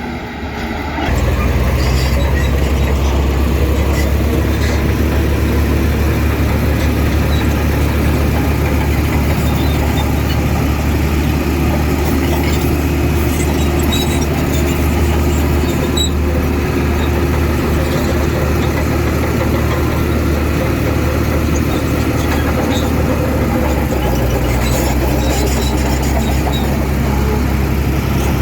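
Heavy diesel engine of earth-moving machinery running steadily, growing louder about a second in and staying loud.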